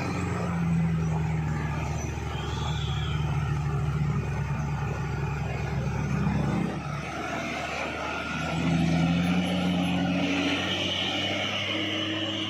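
Heavy truck's diesel engine running under load on a steep climb. The note dips a little past the middle and picks up again about two seconds later.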